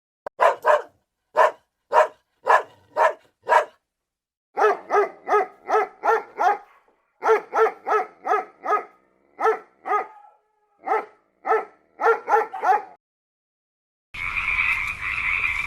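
A dog barking over and over, about two barks a second, in runs with short pauses. Near the end the barking stops and a steady, continuous higher-pitched call sound starts.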